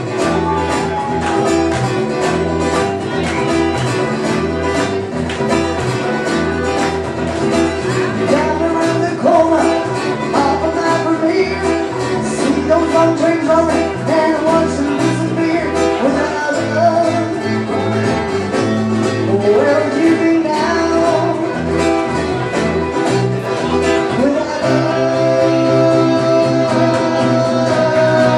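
Live band jamming: a lead guitar plays a bending melody line over bass and strummed acoustic guitar in a steady rhythm.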